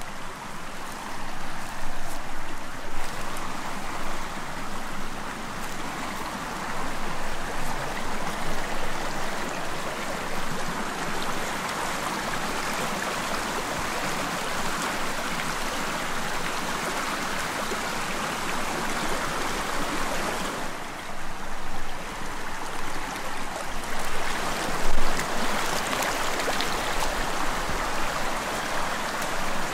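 Stream water flowing over stones, a steady rushing splash that drops away briefly about two-thirds of the way through, then returns, with one louder moment near the end.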